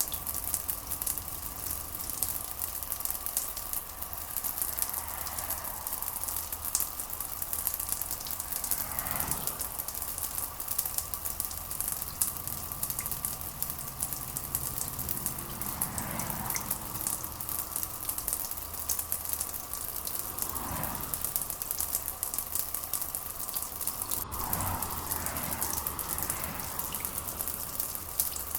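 Steady rain with a dense crackling patter, over a constant low hum and a faint steady tone. A few soft, short swells come and go a handful of seconds apart.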